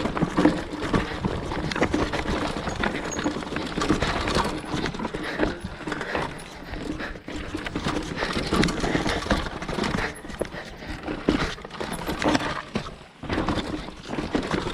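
Mountain bike clattering and rattling over a rough, rocky trail at speed, with a dense run of irregular knocks and clicks from the tyres and frame.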